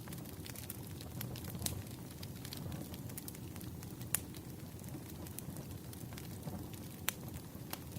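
Wood fire crackling: a steady low rumble with scattered sharp pops, the strongest about four seconds in and again near seven seconds.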